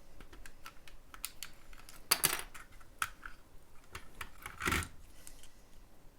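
Lego plastic pieces and light-kit cable being handled: a run of small sharp plastic clicks, with two louder clattering rattles about two seconds in and again near five seconds.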